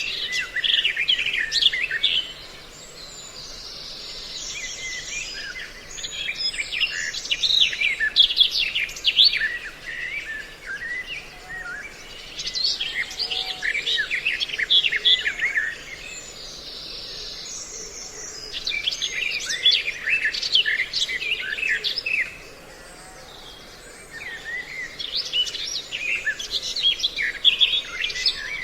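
Bird-lure recording of mixed songbird calls: bouts of rapid, high, chattering chirps lasting a few seconds each, repeating about every six seconds with softer chatter in between.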